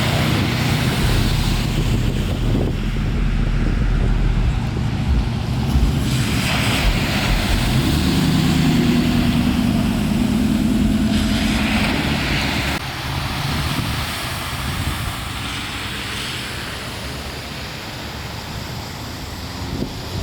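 A vehicle engine running amid rushing, splashing water, with two louder surges of spray partway through, and wind noise on the microphone throughout.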